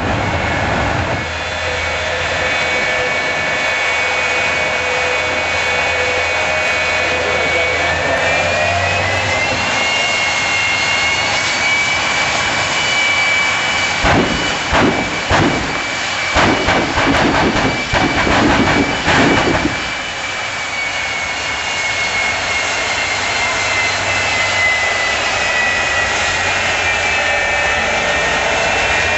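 Jet truck's turbine engine running with a high, steady whine that rises in pitch after about eight seconds. From about fourteen to twenty seconds a rapid series of loud bangs comes over it, and then the whine slowly falls in pitch.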